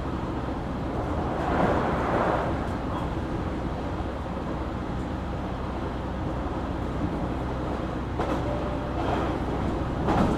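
JR Kyushu 817 series electric train heard from inside the car while running: a steady low rumble and hum, with a swell of louder rail noise about two seconds in and again near the end.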